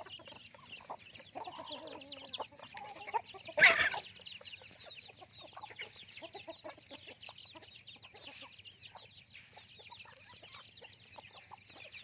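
A flock of free-range chickens: constant high peeping calls with lower clucks, heaviest in the first three seconds. About three and a half seconds in comes one brief, loud burst.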